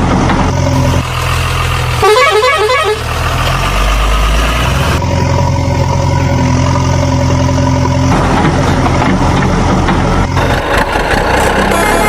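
Heavy vehicle engine running with a steady low hum and horn honking, the sound changing abruptly several times.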